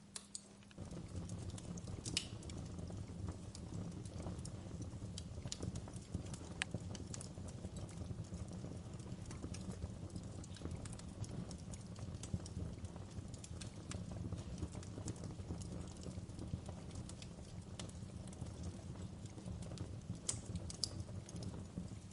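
Fire crackling in a fireplace: irregular sharp pops and snaps over a steady low rumble of burning, which swells up just under a second in.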